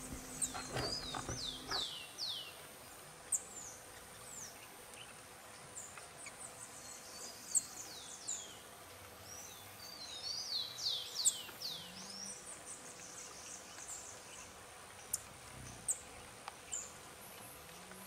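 Wild songbirds calling with short, high, downward-sweeping chirps, in a quick run about a second in and another around ten seconds in, with single notes between. A faint steady high hiss lies underneath.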